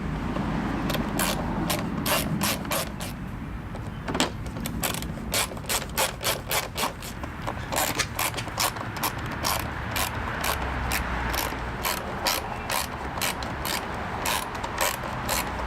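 Hand socket ratchet clicking in quick runs of strokes as bolts are driven in.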